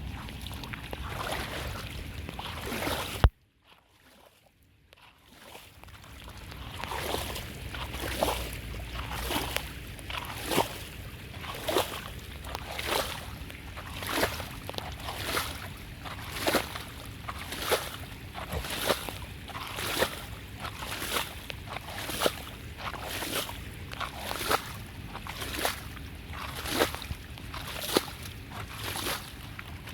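Drain water sloshing in regular strokes, about one a second. Near the start there is a single sharp knock, the loudest sound, followed by about two seconds of near silence before the sloshing builds back up.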